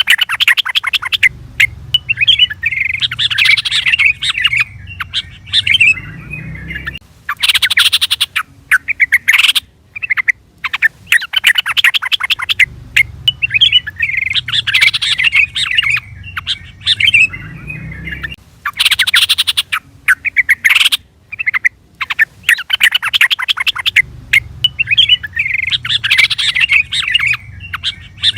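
Yellow-vented bulbul (trucukan) calling: bubbly, chattering song phrases broken by runs of sharp, rapid chirps, repeated as the same looped sequence about every 11 seconds.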